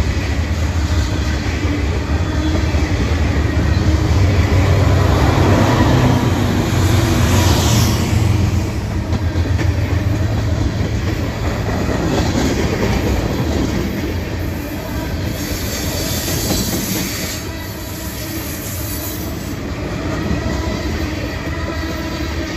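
Freight train cars (covered hoppers, tank cars and a boxcar) rolling slowly past, their steel wheels running on the rails in a steady low rumble. Patches of higher hiss from the wheels come about a third of the way in and again past the middle, and the rumble eases slightly after the first third.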